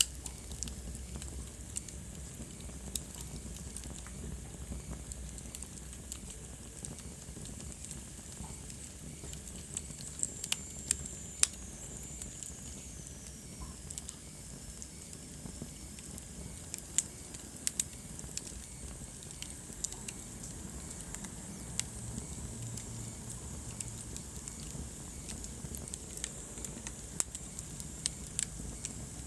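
Wood fire burning in a fireplace, crackling with irregular sharp pops over a low steady rumble. About ten seconds in, a faint high whistle falls in pitch for a few seconds.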